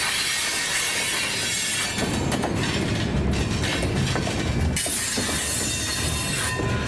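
Freight cars rolling past with a steady rumble, their wheels squealing high on the curve in two long spells, one at the start and one about five seconds in.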